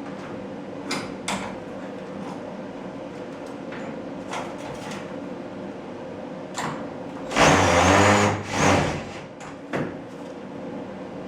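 A cordless screw gun runs in a loud burst of about a second, its pitch wavering as it drives a screw, about seven and a half seconds in, then a shorter burst follows. Under it there is a steady low hum and a few light knocks.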